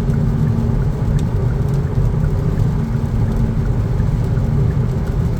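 Steady engine and road noise in a Kia Niro's cabin while driving, with a faint hum that comes and goes. The engine is running at normal revs after a manual upshift out of a transmission stuck in fifth gear.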